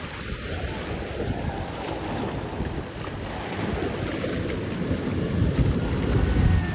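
Wind buffeting the microphone over the rumble of passing boats and churning water, the noise swelling toward the end.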